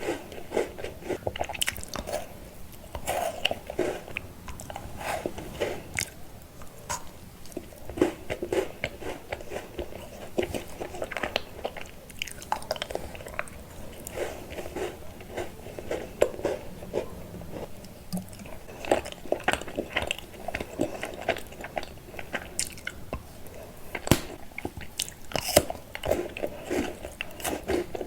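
Close-up sounds of someone chewing and biting into chocolate candy: irregular crunching and wet chewing throughout.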